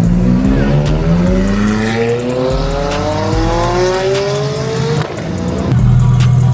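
Supercar engine accelerating hard, its note climbing steadily in pitch for about five seconds before dropping off. A loud, steady, lower engine note follows near the end.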